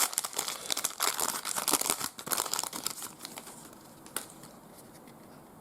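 Plastic trading-card pack wrapper crinkling and tearing as a pack is opened: dense crackling for about three seconds, then quieter handling with a single sharp click near the end.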